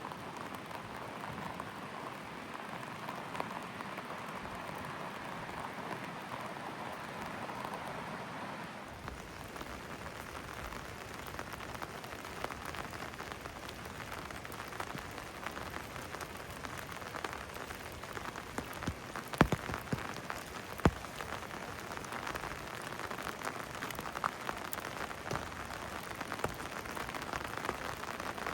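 Steady rain falling, a dense patter of drops on hard surfaces, with a few louder drops striking close by about two-thirds of the way through.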